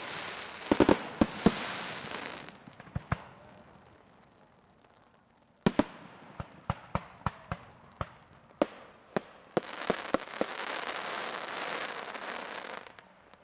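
Fireworks display with 4-inch aerial shells bursting as sharp bangs over a dense crackling wash. The sound fades to a lull a few seconds in. Then a sudden bang starts a run of bangs about two a second, and a long stretch of dense crackling ends near the end.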